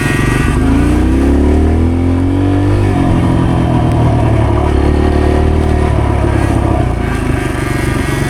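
Dirt bike engine running under throttle, its pitch climbing for about two seconds, dropping back about three seconds in, then holding steady.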